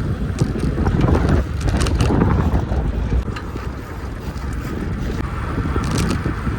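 Wind buffeting the microphone on a moving bicycle, a steady low rumble, with a few sharp clicks and rattles scattered through it.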